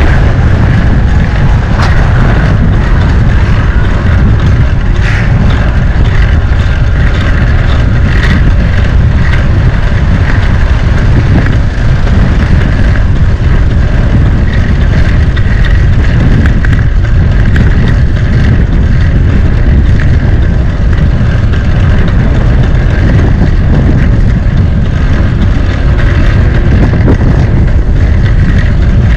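Loud, steady wind rumble buffeting the microphone on a moving bicycle.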